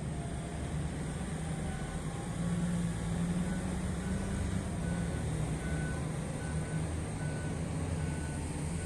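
Heavy mining machine's diesel engine running with a low drone, and a reversing alarm beeping about once every three-quarters of a second from about two seconds in: the machine is backing up.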